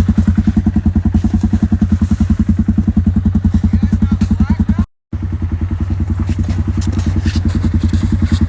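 Can-Am Outlander 850 XMR's V-twin engine idling with a steady, even pulse. The sound cuts out for a fraction of a second about five seconds in, then resumes.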